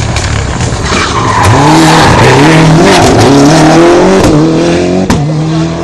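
Rally car accelerating out of a hairpin with its tyres squealing, the engine note climbing steeply about a second and a half in, then rising and dipping several times as it changes gear. It is loudest in the middle as it passes close, then fades a little.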